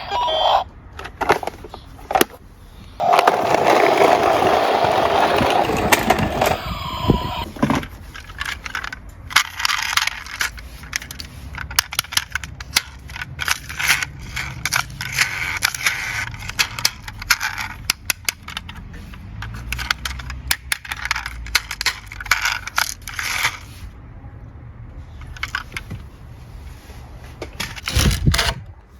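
Small die-cast toy cars rolling and clattering down a hard slope. A scraping rush runs from about three seconds in until past six seconds, then many scattered clicks and knocks follow.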